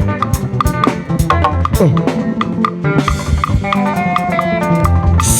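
Instrumental stretch of live band music between sung lines: a drum kit and percussion keep a steady beat under sustained melodic instrument notes, with one note sliding down about two seconds in.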